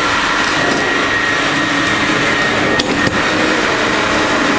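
Carpet water extractor running steadily, its wand sucking water up out of flood-soaked carpet, with a couple of brief knocks about three seconds in.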